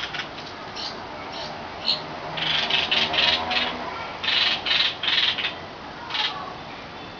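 Young birds giving harsh, raspy begging calls while being fed, in short bursts that come in quick runs of several.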